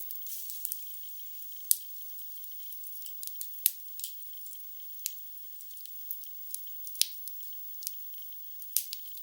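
Wood logs burning in a fireplace, crackling with irregular sharp pops over a faint hiss. The sound is thin, with no low tones, and the strongest pops come about two, four, seven and nine seconds in.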